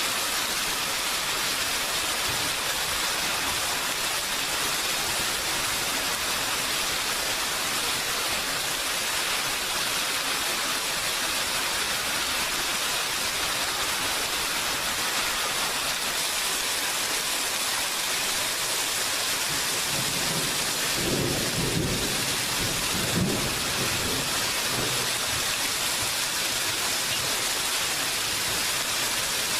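Steady rain falling. A low rumble of thunder rolls in about two-thirds of the way through and dies away a few seconds later.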